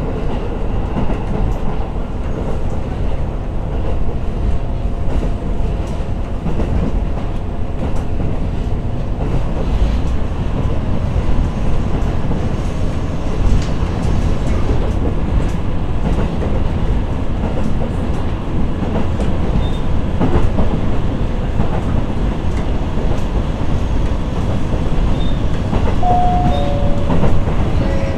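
Interior running noise of a KiHa E130-series diesel railcar under way: a steady rumble of engine and wheels on rail, with clickety-clack over the rail joints. Near the end come two short tones, the second lower than the first.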